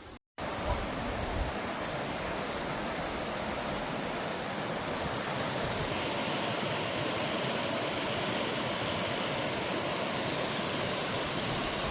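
Mountain stream rushing over rocks, a steady wash of running water.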